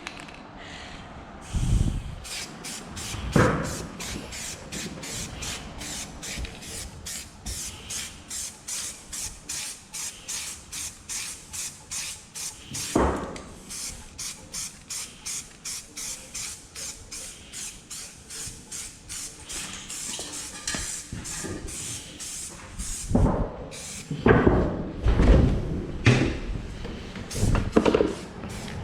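Aerosol spray-paint can being shaken, its mixing ball rattling in an even rhythm about twice a second for a long stretch. A few louder knocks come from handling, several of them bunched near the end.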